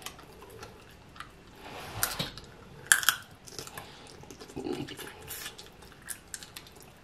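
Close-miked eating of snow crab in sauce: wet chewing and lip-smacking with scattered sharp clicks at irregular times, the loudest about three seconds in.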